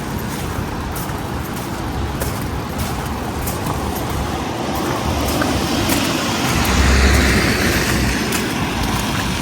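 City street traffic noise, with a motor vehicle passing close that swells to its loudest about seven seconds in.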